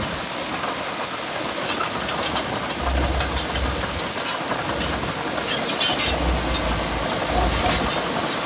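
Heavy earthmoving machinery working, a diesel engine running under a steady rattling and metallic clanking, with a few deeper rumbling swells.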